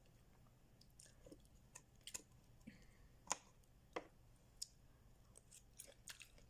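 Quiet eating: chewing with scattered small clicks and smacks, the loudest about three seconds in and again about a second later.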